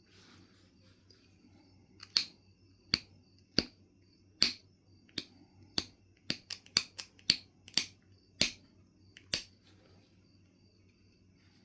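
Knife River Flint being knapped: about fourteen sharp, irregularly spaced clicks as flakes come off the stone, bunched closer together in the middle.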